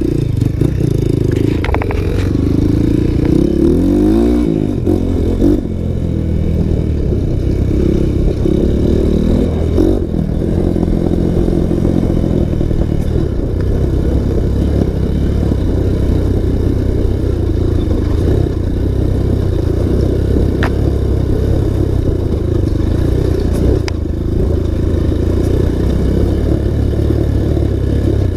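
Dirt bike's single-cylinder four-stroke engine running under load on a trail. It revs up and down a few seconds in, then pulls on steadily.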